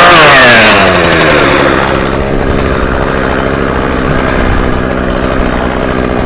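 Two-stroke chainsaw coming off full throttle, its revs dropping quickly over the first second or two, then idling steadily between cuts.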